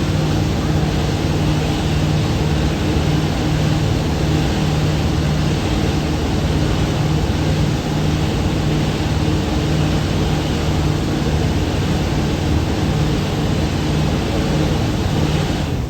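Thames Clipper river catamaran under way: a steady engine drone with a low hum, over a loud even rush of wind and water.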